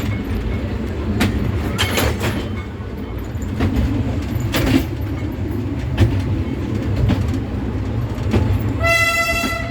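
Train running on rails: a steady low rumble with scattered clacks and knocks from the wheels and cars. Near the end the locomotive's horn or whistle gives a short toot.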